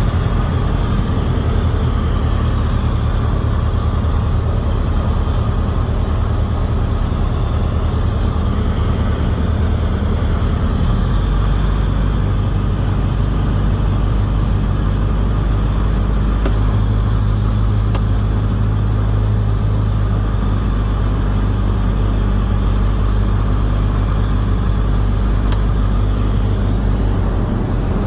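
Pulsar light aircraft's engine and propeller running with a steady low drone, the pitch of the drone changing about eleven seconds in and again about seventeen seconds in.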